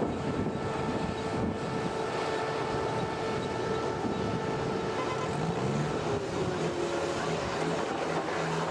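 Machinery running steadily, engine drone with several steady whining tones, and a short rise in pitch about five seconds in.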